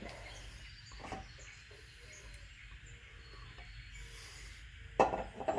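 Faint bird chirps over a steady low hum, then a sudden loud knock-like clatter about five seconds in.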